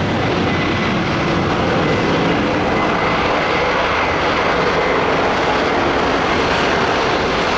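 Boeing 787 jet airliner landing: a loud, steady rush of jet engine and air noise, with a faint thin whine held steady through it.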